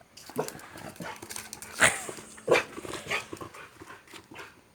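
Boxer dog giving a string of short vocal sounds, about half a dozen, on command to "do boo", the loudest near the middle.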